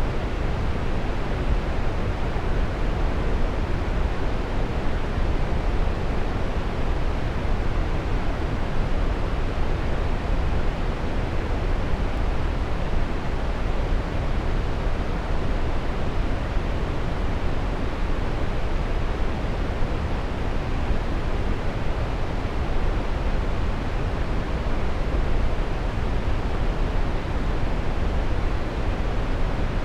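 Waterfall: steady, even rush of falling water, unchanging throughout.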